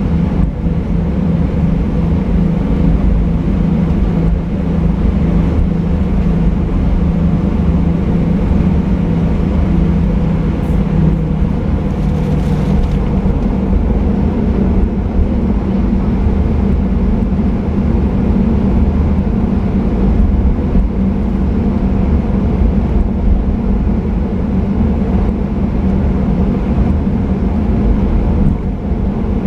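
Cabin noise of a Boeing 737-800 airliner: its CFM56 jet engines running steadily, a constant low hum over a dense rumble, heard from inside the cabin.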